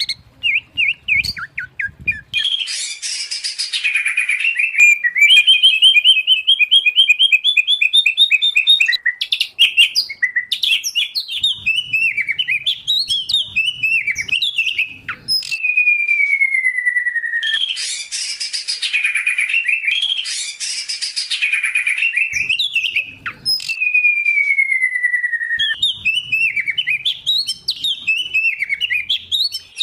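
Songbirds singing in a loud, varied stream: passages of fast harsh chatter alternate with warbled whistled phrases, a rising run of quick repeated notes, and twice a long clear falling whistle. A mixed 'masteran' song recording of white-rumped shama, oriental magpie-robin and greater green leafbird.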